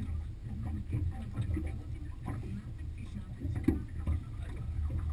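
Boat with a Yamaha F60 outboard motor running: a steady low rumble with scattered short knocks, one sharper knock a little past the middle.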